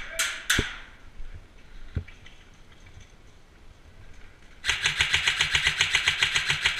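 Airsoft electric gun (AEG) firing: a few single sharp shots in the first two seconds, then, near the end, a long full-auto burst, its motor and gearbox cycling as a rapid, even rattle of shots.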